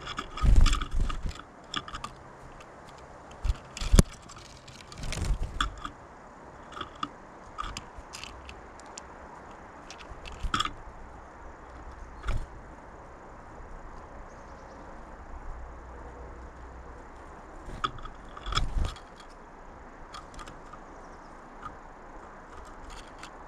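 Birds at a feeder right beside the microphone: irregular sharp taps and scrapes of pecking at seed, with a few heavier thumps from birds landing or knocking against the feeder.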